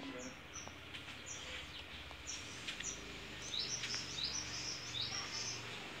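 A small bird chirping in short, high notes, with a quicker run of falling notes about midway through. There are a few faint clicks of wire connectors being handled.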